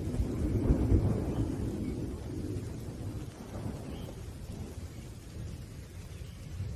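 Rolling thunder rumbling over steady rain. It is loudest in the first second or two and slowly dies away.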